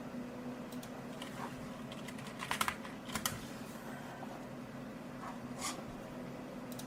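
Computer keyboard typing: a few short clusters of key clicks, about two and a half, three and a quarter, and five and a half seconds in, over a steady low electrical hum.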